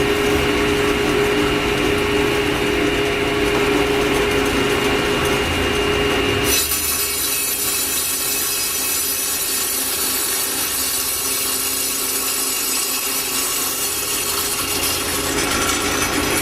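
Power saw with a diamond blade cutting fire brick: a steady motor whine with grinding underneath. About six and a half seconds in, the sound turns suddenly to a harsher, hissier grind.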